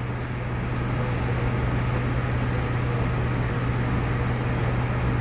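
A steady low mechanical hum with an even rushing rumble over it.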